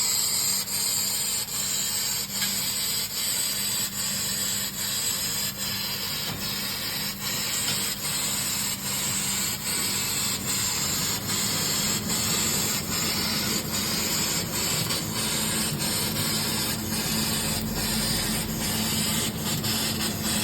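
Fibre laser cutting 5 mm carbon steel floor plate with oxygen assist gas: a steady, loud hiss from the gas jet and burning cut, broken by many brief dips, over a low steady hum.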